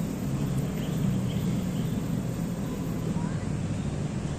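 Steady low rumble of city road traffic, with a few faint, short high chirps above it.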